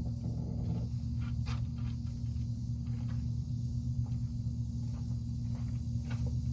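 A steady low hum, with scattered faint clicks and taps over it.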